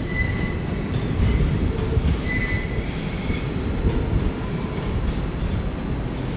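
Electric passenger train rolling over the rails with a steady low rumble, and its wheels briefly squealing on the track twice: right at the start and about two and a half seconds in.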